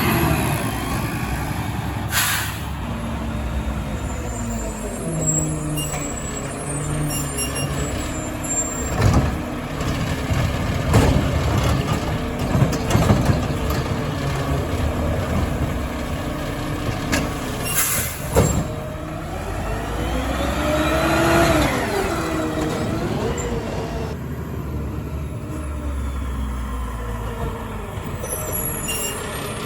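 Mack LR garbage truck with a McNeilus ZR automated side loader at work: its diesel engine runs steadily, the air brakes hiss twice, a string of knocks and bangs comes in the middle, and the engine revs up and back down about two-thirds of the way through.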